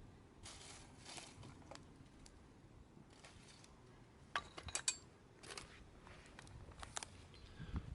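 A few light clicks and clinks over a quiet background, with a quick cluster of them about four to five seconds in.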